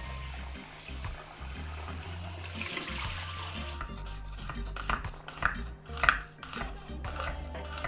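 A kitchen tap runs, then from about halfway through a knife chops sharply on a cutting board, several strikes a second, over background music with a low bass line.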